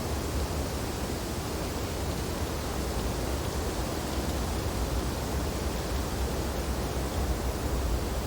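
Steady wind blowing through snowy tree branches: a constant rushing noise over a deep low rumble, with no gusts or breaks.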